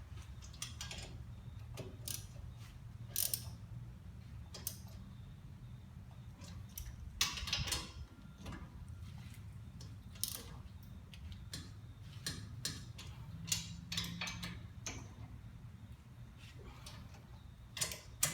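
Ratchet wrench clicking in irregular runs, with a few sharper metal clinks, as the mounting bolts of a new front wheel bearing and hub assembly are tightened in a cross pattern.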